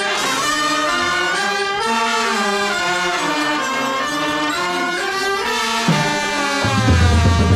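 Brass section of a marching drum corps playing a melody in held notes that step up and down. Near the end, heavy bass drums and percussion come in under the horns.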